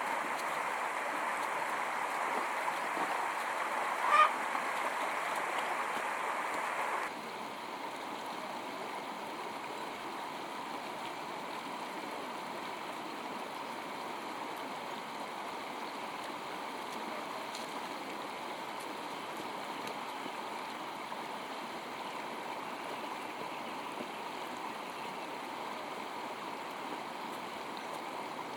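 Steady rushing outdoor noise with one short honking call from a fowl about four seconds in. The rushing steps down to a quieter level about seven seconds in.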